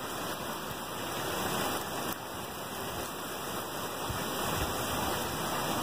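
Heavy storm rain pouring down, a steady, even hiss.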